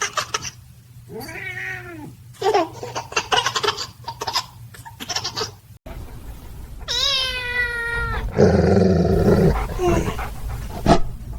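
A cat's meows and yowls mixed with a baby's giggles and a long high-pitched cry: a short arching call about a second in, a run of quick giggle-like pulses, then after a break a drawn-out cry held for about a second, followed by a burst of loud rumbling noise.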